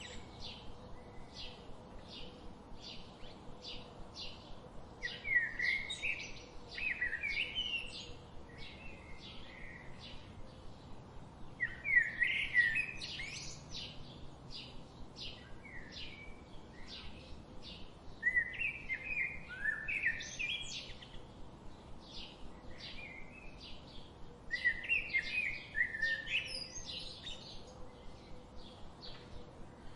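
Songbirds singing: one bird repeats a short chirp about twice a second throughout, while another sings louder, varied phrases of about three seconds, four times with pauses between.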